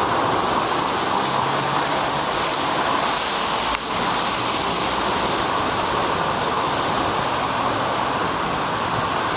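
Steady rushing noise from a bicycle ride in the rain: wind over the microphone and wet road noise. There is a brief dip about four seconds in.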